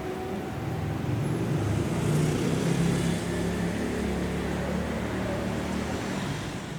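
Kintetsu electric train running through the station: a steady low rumble of motors and wheels on rail that swells a couple of seconds in and eases near the end.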